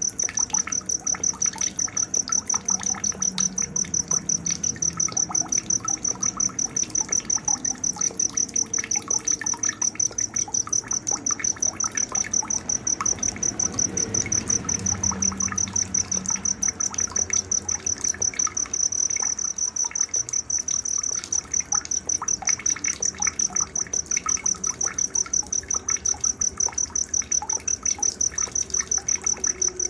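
Night-time nature ambience led by a cricket chirping: a steady high-pitched trill pulsing several times a second without pause. Fainter scattered chirps sound beneath it.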